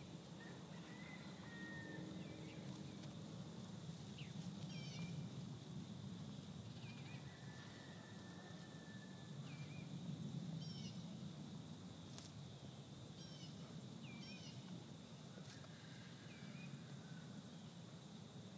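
Scattered short bird chirps, a few at a time, over a steady low rumble of background noise.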